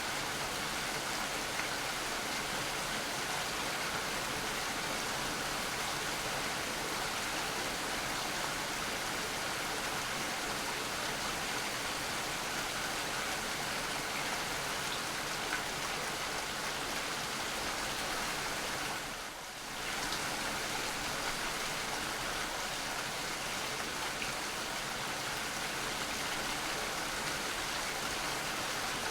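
Steady rain falling, an even hiss of many drops with no distinct events, dipping briefly about two-thirds of the way through.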